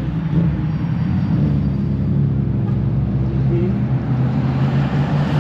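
Steady low rumble of motor vehicle engines running, with no break or clear pass-by.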